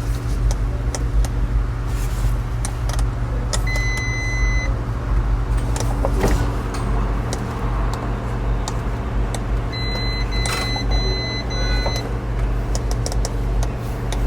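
Lamborghini Revuelto warning chime beeping with the ignition on: one long high tone about four seconds in, then a run of short beeps around ten to twelve seconds. Under it runs a steady low hum, with scattered clicks.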